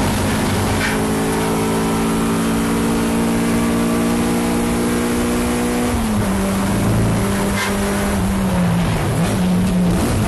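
Car engine running hard at high revs on a race track, its pitch steady at first, then dropping about six seconds in and wavering lower.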